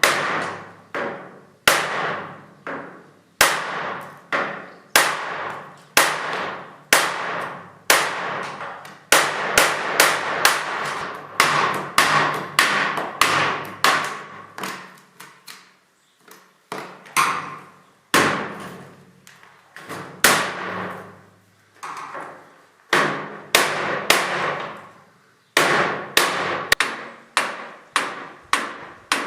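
Hammer blows struck over and over, about one to two a second with a few short pauses, each ringing briefly after the hit: hammering to break out an old door frame cemented into the wall.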